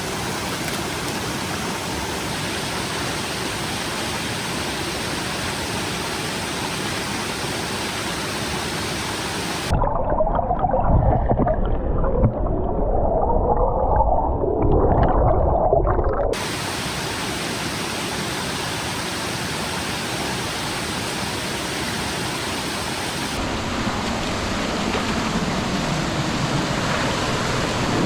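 Steady rushing of a stream's running water. For about six seconds from ten seconds in, it gives way to a louder, muffled rumbling with some wavering tones.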